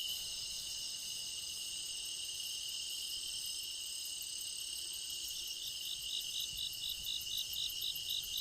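Crickets and other insects trilling in a steady chorus. From about five seconds in, one insect joins with a regular chirp, roughly four a second.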